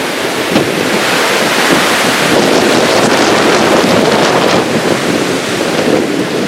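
Storm wind gusting hard against a pop-up hunting ground blind, with rain and heavy wind buffeting on the microphone; loud and continuous, with many short rattles and flaps through it.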